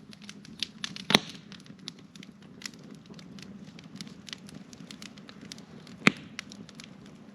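Campfire wood crackling: irregular small snaps and pops, with two louder pops about a second in and about six seconds in.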